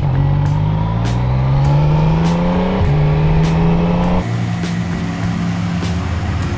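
Motorcycle engine accelerating, its pitch rising steadily, then dropping at an upshift about three seconds in. It pulls on at a steady note, and the low rumble eases about four seconds in.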